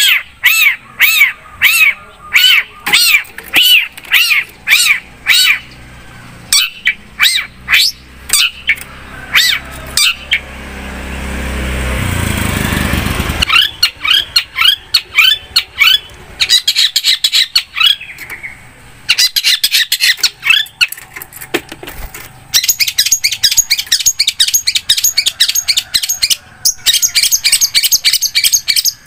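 Long-tailed shrike (cendet) singing: a run of short, harsh call notes about two a second, then fast, dense chattering. Around the middle, a rush of noise swells for a couple of seconds and cuts off.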